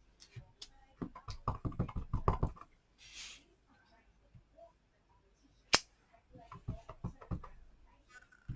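A rubber stamp on an acrylic block being tapped onto an ink pad and pressed onto cardstock: a quick run of light taps, a short brushing hiss, one sharp click, then a few more taps.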